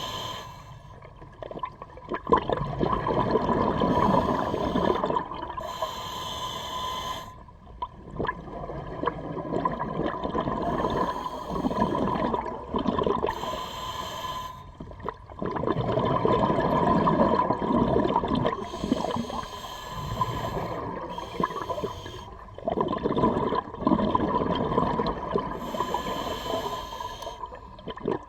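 Scuba diver breathing through a regulator underwater: a hiss on each inhale and a long bubbling rush on each exhale, about one breath every six to seven seconds.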